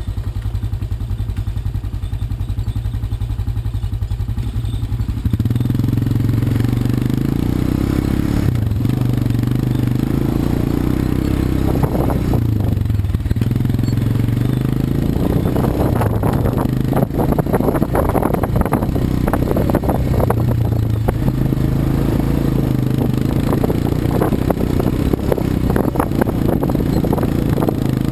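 Quad bike (ATV) engine running steadily low at first, then louder from about five seconds in as it gets under way. From about halfway on, clattering and scraping knocks come over the engine, as on rough ground.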